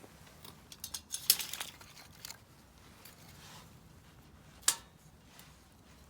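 Split firewood burning in a Solo Stove Campfire fire pit, crackling, with a cluster of crackles about a second in and one sharp pop near the end.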